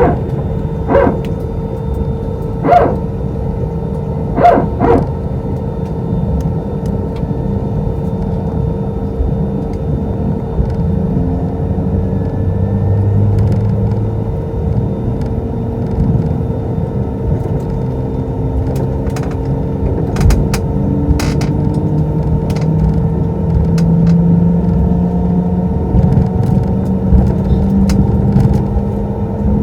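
Airbus A320 cabin heard from a passenger seat while taxiing: steady engine hum and rumble from its CFM56-5A engines, with a few sharp knocks in the first five seconds.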